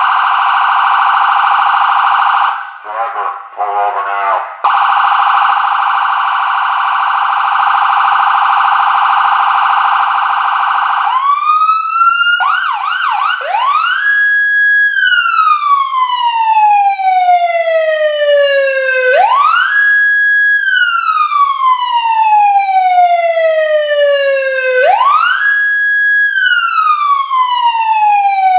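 Whelen 295SLSA1 electronic police siren played through two 100-watt speakers in a large hangar. It gives a very fast warble, briefly breaks into short choppy blips, and returns to the warble. About eleven seconds in it changes to a wail that climbs quickly, holds its top note for about a second, then falls slowly, repeating about every six seconds.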